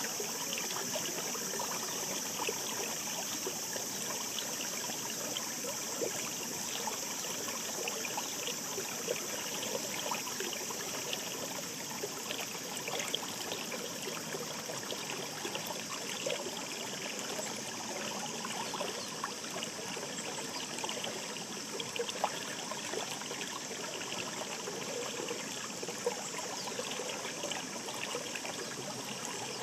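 Shallow mountain stream babbling steadily, with many small splashes and trickles.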